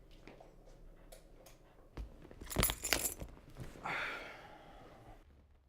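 Small metal objects jangling and clinking, loudest in a brief clatter about two and a half seconds in, with scattered light clicks around it.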